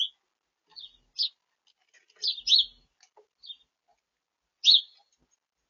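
Small songbirds at a feeder giving short, high chirps, about six in all, loudest as a quick pair about two and a half seconds in and once more near the end, with silence between calls.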